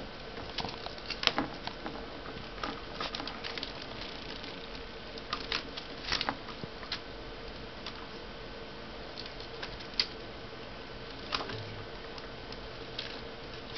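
Baby budgies bathing, splashing water with irregular light patters and flicks, busiest in the first half and thinning out later.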